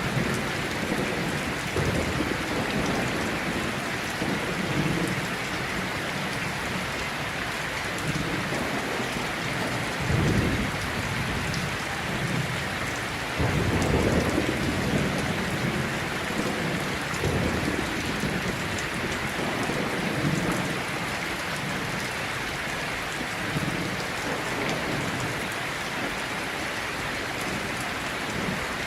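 Heavy rain falling steadily, with rolls of thunder rumbling low through it; the strongest rolls come about ten seconds in and again around fourteen seconds.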